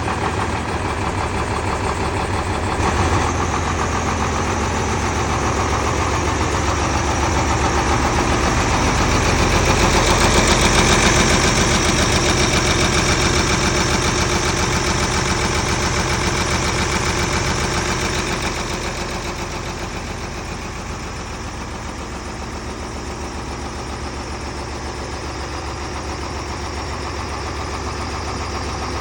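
Truck engine idling steadily, growing louder and brighter from about eight seconds in, then dropping back to a quieter idle after about eighteen seconds.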